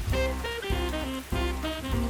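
Gentle piano music, chords and notes struck about every half second, over a steady hiss of falling rain.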